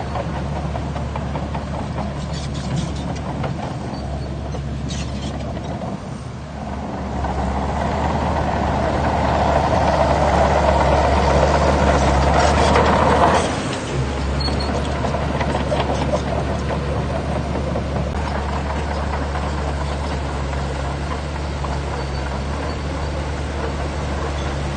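Heavy diesel engine of earthmoving machinery running steadily. From about seven seconds in it works harder and gets louder for some six seconds, then drops back suddenly to a steady run.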